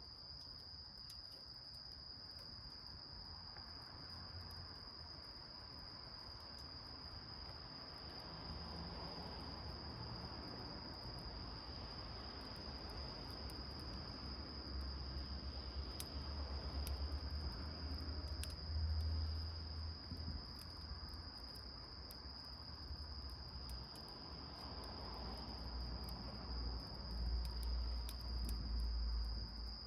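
Insects trilling in one steady, high, unbroken tone, with faint crackling from a small wood fire burning in a tin can. Low rumbles swell in the middle and again near the end.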